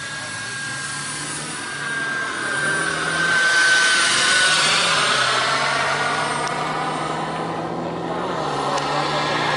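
Radio-controlled Tornado jet model's Kingtech K80 turbine whining as the model flies past, growing louder to a peak about four seconds in with the whine dropping slightly in pitch, then fading a little.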